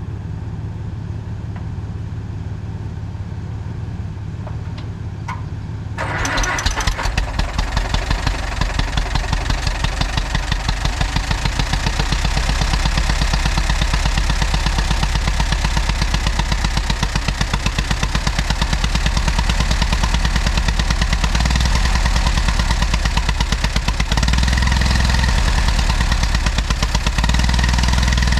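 Allis-Chalmers WD tractor's four-cylinder gasoline engine starting on a jump-start after a low steady engine hum. It catches about six seconds in and runs with an even firing beat, picking up speed a little near the end.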